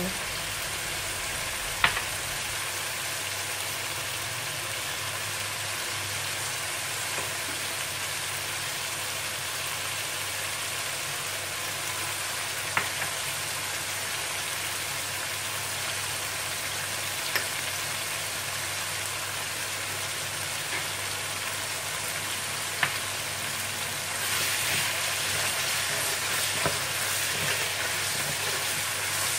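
Onion-and-yogurt masala sizzling steadily in a metal karahi, with a few sharp clicks of a metal spatula against the pan. The sizzling gets louder near the end.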